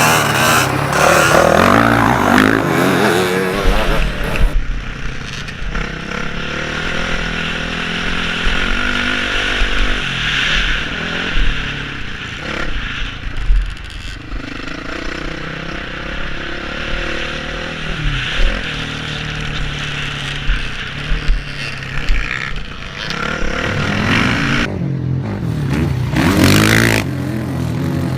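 Motocross bike engine revving up and down as it is ridden round the track, its pitch rising and falling again and again over a low rumble, with a loud rev-up near the end.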